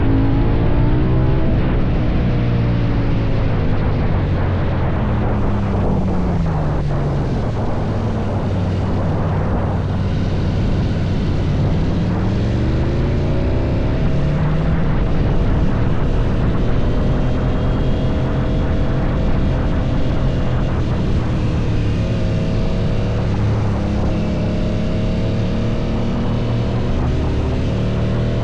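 KTM 790 Duke's parallel-twin engine through an Akrapovic exhaust, its pitch falling in the first couple of seconds and again around six seconds in, climbing back about twelve seconds in, then holding steady.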